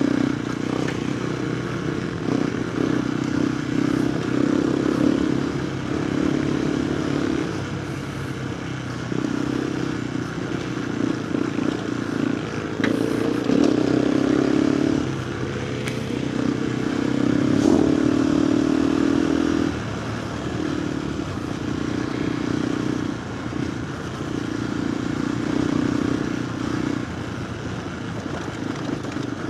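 KTM 390 Adventure R's single-cylinder engine through a Norifumi Whoops slip-on exhaust while being ridden, the exhaust note swelling and easing off repeatedly as the throttle opens and closes. The revs climb clearly about a third of the way in and again about two thirds of the way in.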